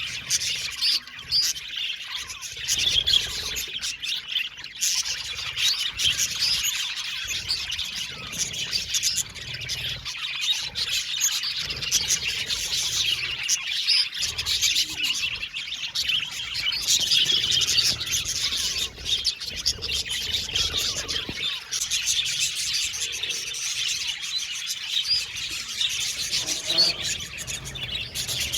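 A flock of budgerigars chattering and chirping, many short overlapping calls at once in a continuous, busy twitter.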